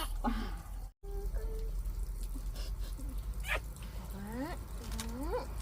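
Water dripping and splashing during a young child's bath, with small clicks. Near the end come two short rising vocal sounds from the child.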